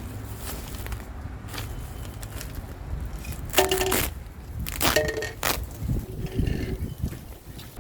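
A bag of chicken feed being opened and handled: rustling and scraping, with a few louder tearing bursts around the middle.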